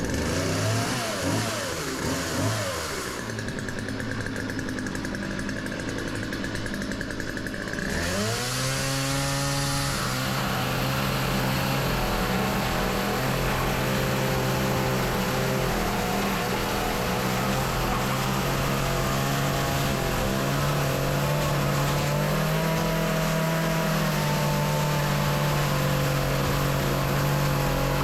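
Petrol chainsaw running: its engine revs up and down three times, settles lower, then about eight seconds in picks up and holds a steady high running note.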